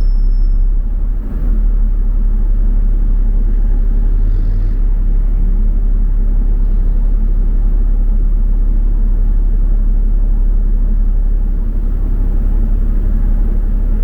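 Steady low rumble of a double-decker bus heard from inside, its engine and road noise running while it drives.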